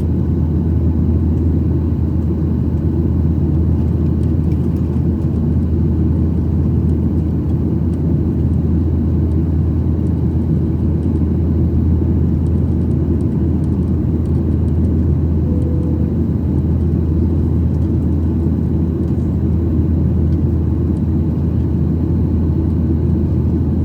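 Steady low drone of a Boeing 737-800's CFM56-7B turbofan engines and airflow, heard inside the passenger cabin, even and unchanging throughout.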